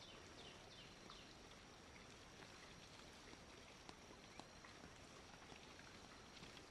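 Near silence: faint outdoor ambience with a few faint bird chirps and a couple of soft clicks.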